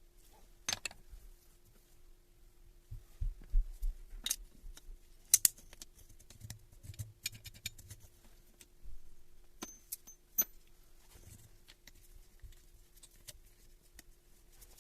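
Metal parts and hand tools being handled on a workbench during a breaker-hammer rebuild: scattered clinks and knocks, a few ringing briefly about ten seconds in, over a faint steady hum.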